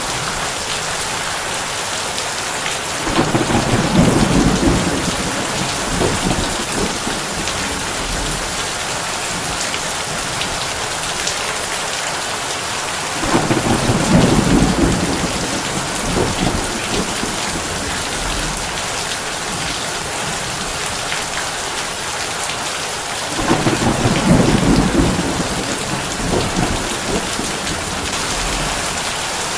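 Heavy rain falling steadily on a tin roof, with three low rumbles of thunder about ten seconds apart, each lasting a couple of seconds.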